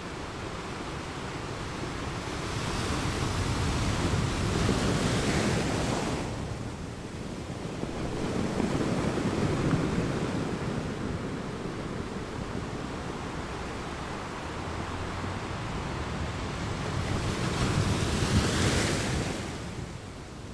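Ocean surf breaking and washing in, mixed with wind rumbling on the microphone. The rushing noise swells and eases three times: a few seconds in, around the middle, and near the end.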